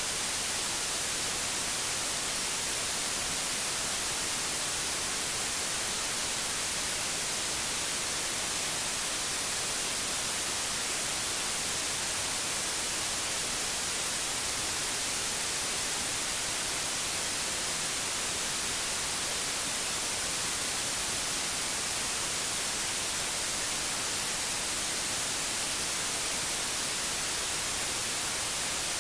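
Steady white noise: an even hiss, heaviest in the treble.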